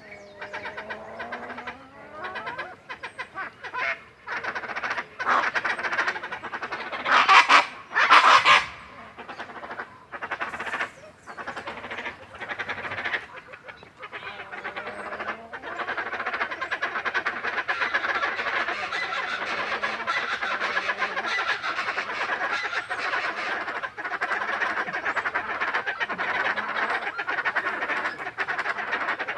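Animal calls, croaking in character: short gliding calls at first, two loud calls about a quarter of the way in, then from about halfway a dense, rapidly pulsing croaking chorus that keeps going.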